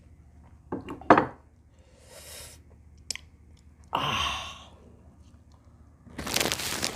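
A person eating camel bulalo, a bone-marrow and tendon soup, close to the microphone: chewing with sharp wet mouth clicks and smacks about a second in, a breathy exhale a few seconds later, and a louder noisy stretch of eating sounds near the end.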